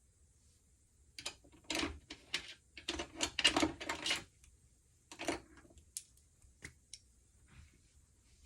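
A run of sharp clicks and clatters, like small hard objects being handled and set down. It is densest for a few seconds early on, then comes as a few single ticks.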